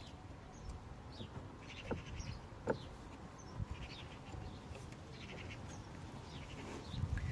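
Faint, short, high animal calls repeating throughout, with two light knocks about two and two and a half seconds in.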